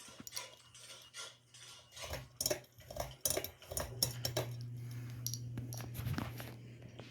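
Hunter Eclipse ceiling fan motor humming steadily, with a run of sharp clicks and clinks over it that stop about six seconds in.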